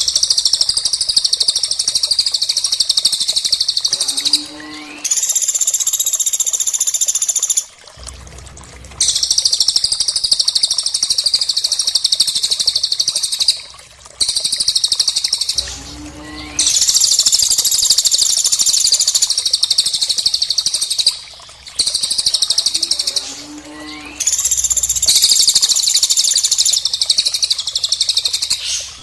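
Recorded songbird calls played as a loop: loud, dense, rapid high-pitched trills alternating with steady high whistles and a short rising note. The same sequence repeats about every eight seconds, three times.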